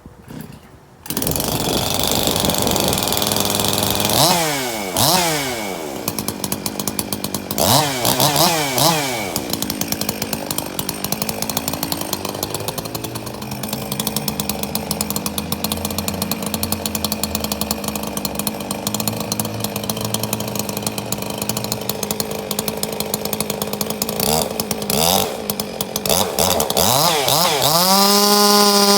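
Chainsaw starting up about a second in and revving up and down twice. It then runs at a lower, steady pitch under load while cutting the face notch into a tree, and revs up to a high, steady pitch again near the end.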